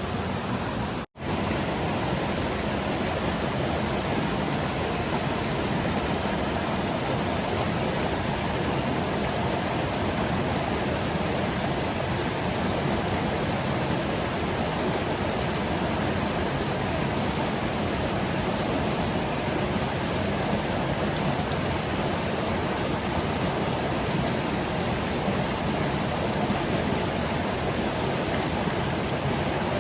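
Stream water rushing steadily. It cuts out for an instant about a second in.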